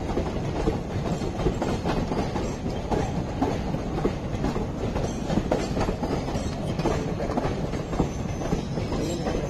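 Passenger coaches of an express train running past at speed: a steady rumble of wheels on rail, with irregular clacks as the wheels cross rail joints.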